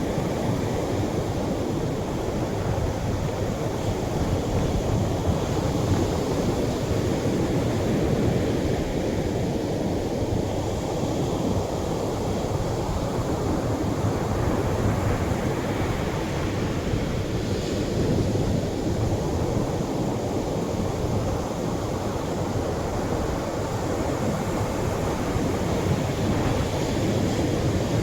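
Atlantic surf washing onto a sandy shore: a continuous rushing wash of small waves that swells and eases gently, with no single loud break.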